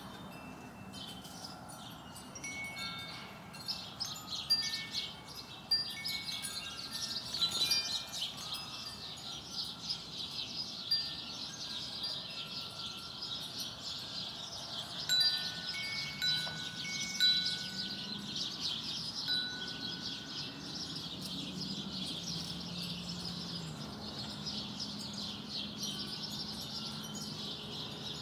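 Small birds chirping continuously, with clear bell-like ringing notes at a few fixed pitches sounding now and then. A faint low hum comes in during the second half.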